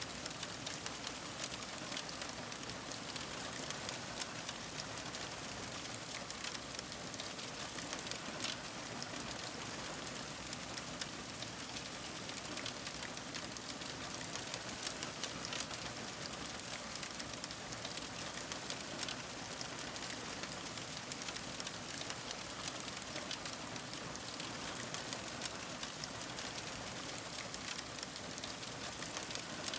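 Fire crackling: a steady hiss dotted with many small, sharp pops and crackles.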